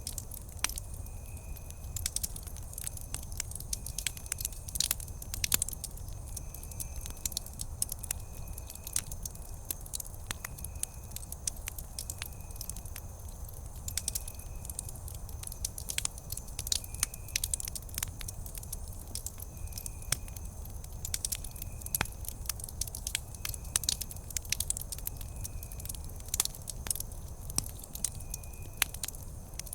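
Wood campfire crackling: sharp pops scattered irregularly over a low, steady rumble of the burning fire. In the background a faint, short, high chirp repeats about once a second.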